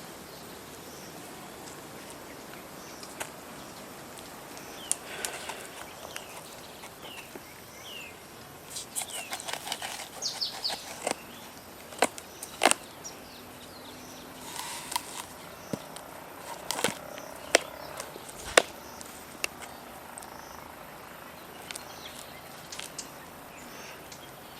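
Scattered sharp clicks and knocks over a steady outdoor background hiss, with a few short bird chirps.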